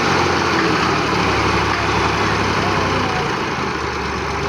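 Tractor engine idling steadily, with people's voices over it.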